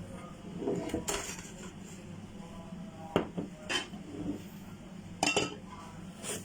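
Dishes and cutlery being handled, with about five separate sharp clinks and knocks spread over a few seconds, over a faint steady low hum.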